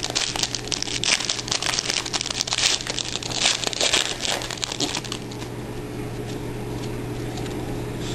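Trading-card pack wrapper being torn open and crinkled, dense crackling for about five seconds, then quieter rustling.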